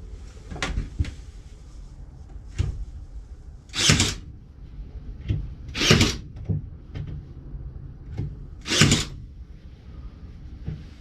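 Workshop assembly noises: a few sharp knocks, then three short loud bursts of noise about two to three seconds apart.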